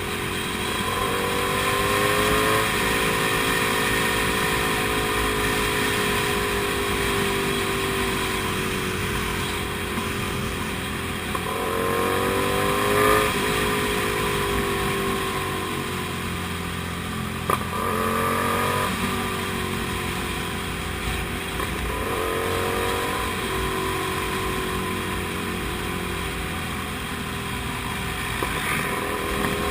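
Comet GTR250 motorcycle's V-twin engine on the move. The revs climb briefly about five times and ease slowly down in between, over steady rushing wind noise.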